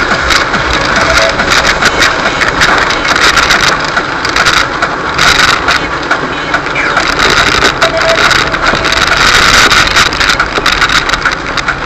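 Fiat Fiorino van driving on a rain-wet road: a steady rush of tyre and road noise with the engine running, and fine crackling spray throughout.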